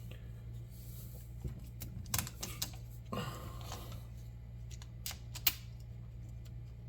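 Small hardware handled by hand: scattered light clicks and clinks, with a brief rustling scrape about three seconds in, over a steady low hum.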